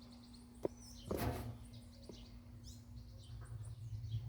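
Birds chirping in the background over a steady low hum, with a sharp click just after half a second in and a brief louder noise about a second in.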